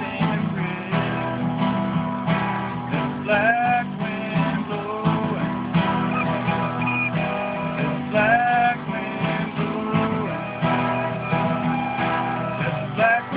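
Acoustic guitar strumming chords while a recorder plays a melody line over it, sliding up into held notes twice.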